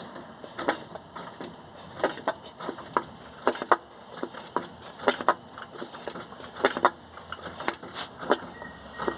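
Diesel engine running with a loud, irregular internal knock: sharp knocks come one to three times a second at uneven spacing. This is the knock that is suspected to be a connecting rod or a piston.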